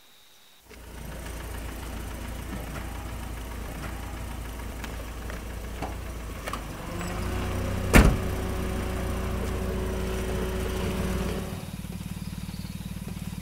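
A car engine idling steadily, with a single sharp knock about eight seconds in from a car door being shut. Near the end the idle drops to a quieter, lower hum.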